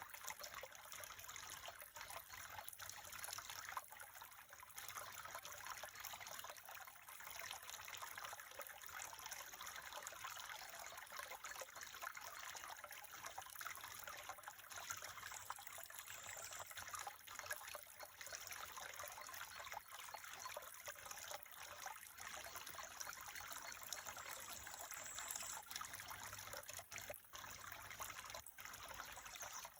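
Water trickling steadily, like a small stream or brook, faint and unbroken throughout.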